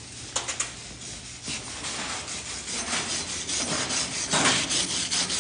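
Welding arc crackling and sizzling during an uphill (vertical-up) weld pass, an irregular hiss of crackles that grows louder about two seconds in.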